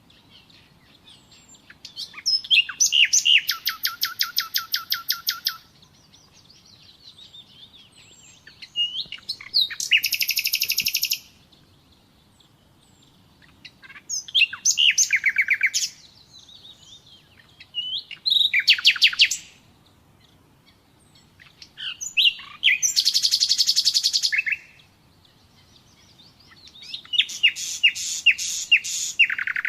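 Nightingale singing: a series of song phrases made of rapid repeated notes and trills, each phrase one to three seconds long, with pauses of a few seconds between them.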